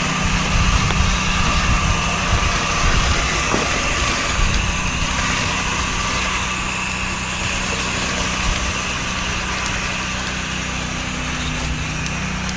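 Pressure washer's engine running steadily, with the hiss of the water spray from the wand over it.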